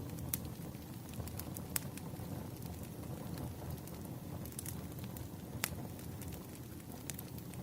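Campfire crackling: a steady low rush of flames with scattered sharp pops and snaps, three of them standing out.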